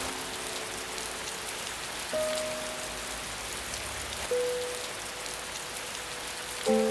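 Steady rain, with slow, sparse music over it: a held note comes in about two seconds in, another a little after four seconds, and a louder one near the end.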